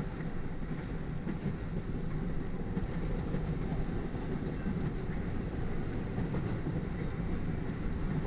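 Double-stack intermodal container cars rolling past on the rails in a continuous, steady low rumble.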